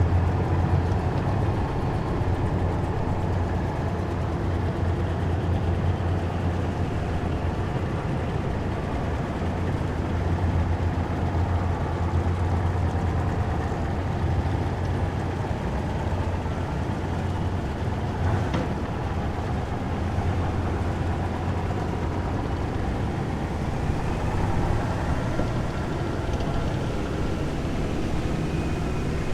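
A column of heavy military vehicles driving past, their engines making a loud, steady low hum throughout. There is a single short sharp click about two-thirds of the way through.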